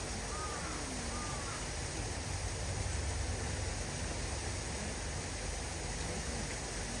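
Steady outdoor background noise with a low rumble, and a bird calling with short arching calls about four times in quick succession in the first second and a half.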